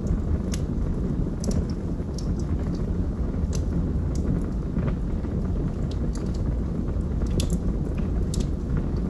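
Wood fire burning in a fireplace: irregular sharp crackles and snaps from the burning logs over a steady low rumble of the flames.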